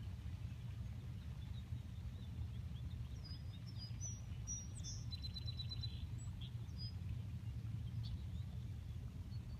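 Small birds chirping, with a short fast trill about five seconds in, over a steady low rumble.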